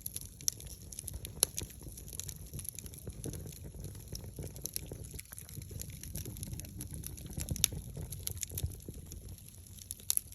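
Wood fire crackling, with frequent irregular sharp pops over a low steady rumble of the burning.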